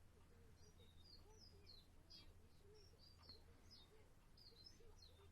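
Budgerigar warbling: a quiet, unbroken string of short chirps, squeaks and wavering notes, over a low steady hum.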